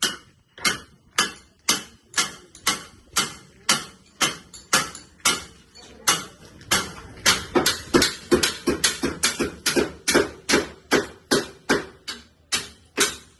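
Hammer blows on slab shuttering (formwork), a steady run of sharp strikes about two a second that quickens after about six seconds.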